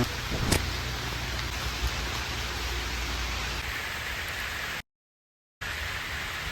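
Heavy rain falling, a steady, even hiss. The sound cuts out completely for under a second about five seconds in, then resumes.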